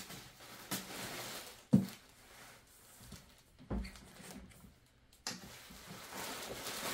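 Packing material being handled: plastic and foam rustling, with a sharp knock a little under two seconds in and a softer one near four seconds.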